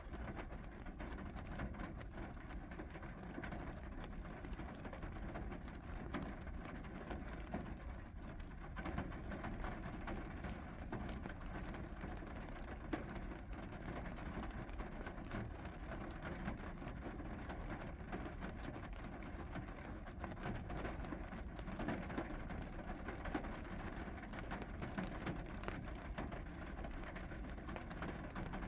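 Steady rain falling, with many individual drops ticking and pattering on a surface.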